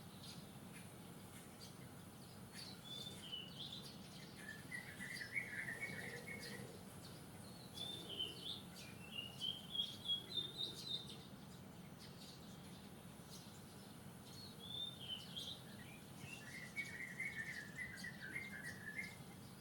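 A wild bird singing three song phrases. Each opens with a short high hooked note and runs into a warbling run or a rising string of quick notes, over steady low background noise.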